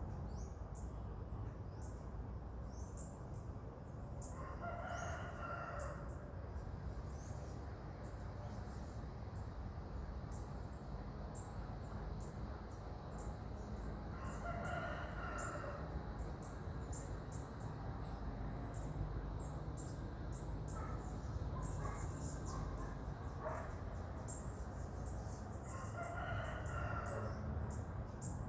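A rooster crowing three times, about ten seconds apart, each crow lasting about a second and a half. Constant high chirping runs underneath.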